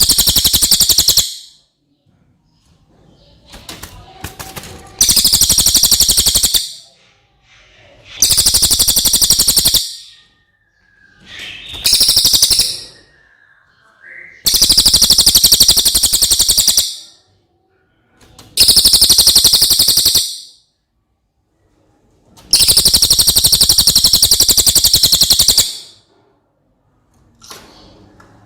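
Recorded cililin song: seven loud bursts of very high-pitched, rapid trilling, each lasting one to three seconds, with short quiet pauses between them.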